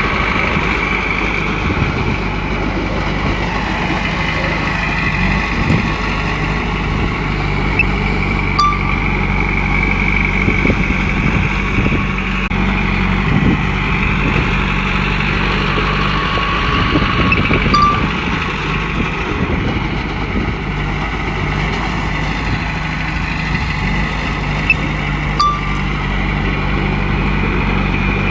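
Komatsu bulldozer's diesel engine running steadily while the machine works, with a high whine that slowly rises and falls and scattered low knocks. A short tone sounds three times, about nine seconds apart.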